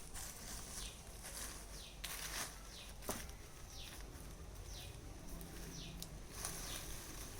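A bird repeating a short call that falls in pitch, about once a second, over low outdoor rustle. There is a single sharp click about three seconds in.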